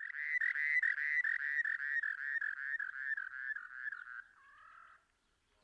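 An animal calling in a rapid series of evenly spaced notes, about five a second, slowing a little and sliding slightly lower in pitch. The series stops about four seconds in, followed by one fainter, drawn-out note.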